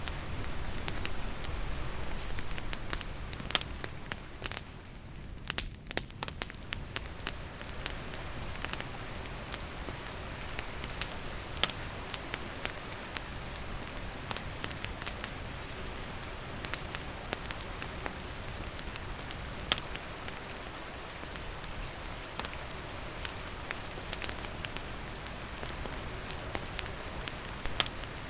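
Steady rain falling, mixed with a wood campfire crackling, with sharp pops scattered irregularly through it.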